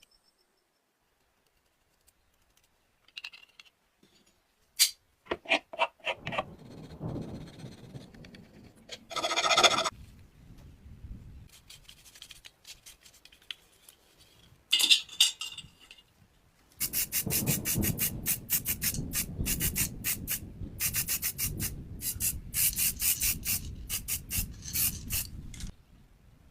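Hand rubbing strokes on a gun model under repair, fast and repeated from a little past the middle until just before the end, with scattered clicks and short scrapes before that.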